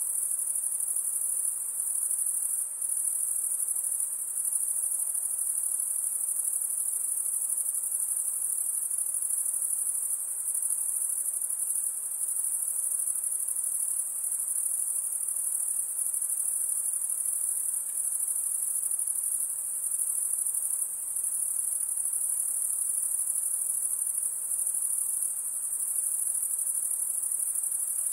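Insects in a continuous high-pitched chorus, a steady shrill drone with only brief small dips.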